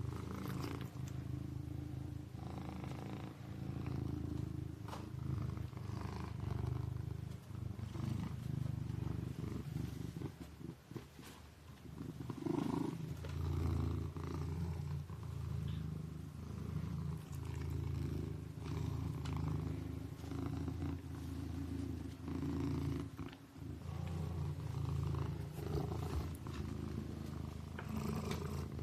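Kitten purring continuously, the purr swelling and easing with each breath about every two seconds.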